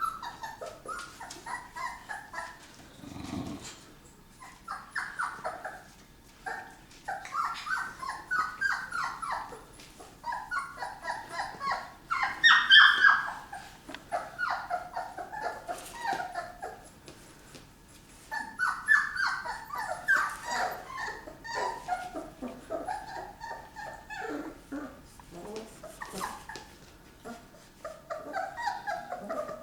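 Young dogs whimpering and squealing: many short, high cries overlapping almost without pause, loudest about 12 to 13 seconds in, with a short low rumble about three seconds in.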